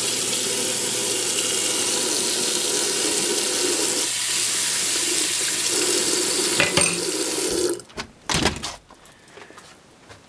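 Kitchen tap running steadily into a sink, turned off sharply about three-quarters of the way through, followed by a few brief knocks.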